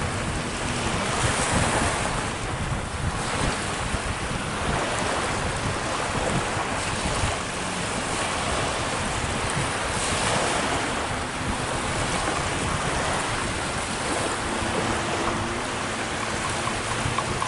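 Sea surf and wind, with wind buffeting the microphone in a steady rushing noise.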